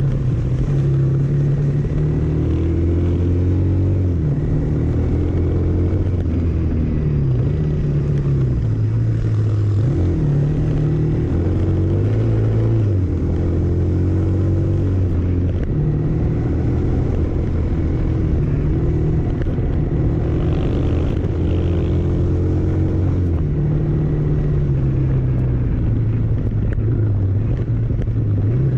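A road vehicle's engine running while it drives along, its low hum stepping up and down in pitch every few seconds as the speed changes.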